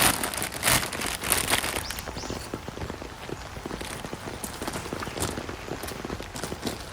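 Rain falling, drops striking a hard surface in an irregular patter, with heavier, louder hits in the first couple of seconds.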